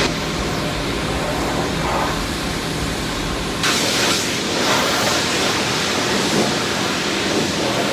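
Self-serve car wash pressure wand spraying water, a steady hiss that changes abruptly about three and a half seconds in.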